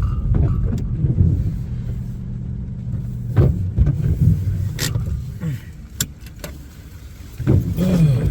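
A car's engine runs with a steady low rumble, heard from inside the cabin, and stops about five seconds in. Sharp clicks and knocks follow, as from door latches or fittings being handled.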